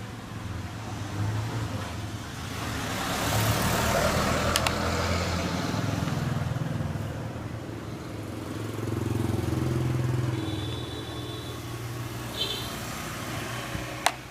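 Low motor-like rumble that swells twice, with a couple of sharp clicks and a short high squeak near the end.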